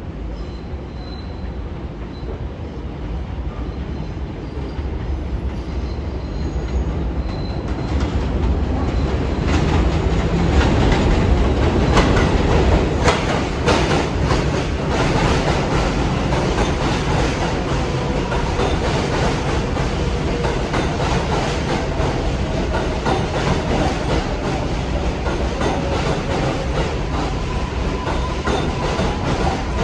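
R142-series New York subway train running on the rails, its wheels clacking over rail joints and squealing. The noise builds up about a third of the way in and stays loud and steady after.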